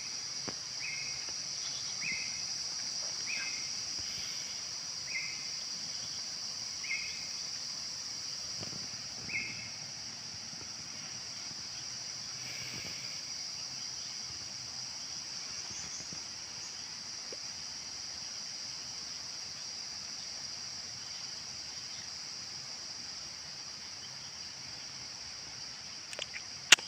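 Steady high-pitched insect drone, like crickets or cicadas. Over the first ten seconds a short call note repeats about once a second, slowing slightly, and a few sharp clicks come near the end.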